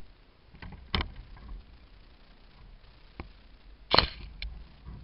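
A few sharp knocks over a quiet background, the loudest about a second in and about four seconds in, with fainter taps between.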